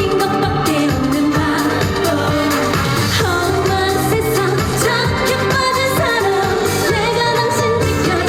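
A woman singing a Korean trot song live over a backing track with a steady beat and bass line.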